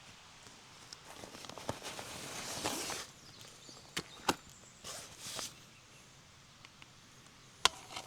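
Rustling with a few sharp clicks and knocks, the loudest click near the end.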